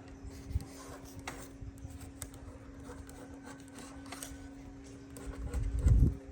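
Light rubbing or scraping with scattered small clicks over a steady low hum, and a brief low thump near the end.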